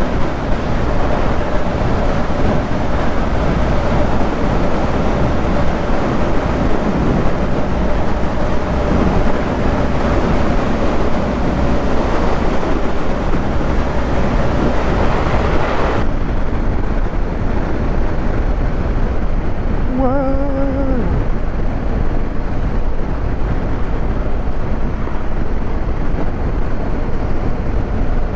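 Motorcycle on the move at road speed: a steady engine note under heavy wind rush on the microphone. About sixteen seconds in the sound changes abruptly and the high hiss falls away, and a brief pitched sound, like a short voice, comes about twenty seconds in.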